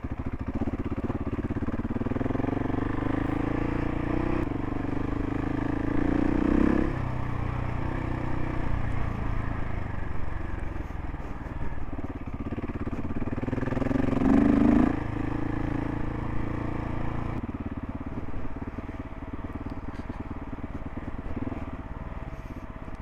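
Single-cylinder engine of a Gas Gas ES 700 adventure motorcycle running under way on a dirt road. It builds up twice, between about two and seven seconds in and again around fourteen seconds, each time cutting back sharply, then runs more quietly for the last few seconds.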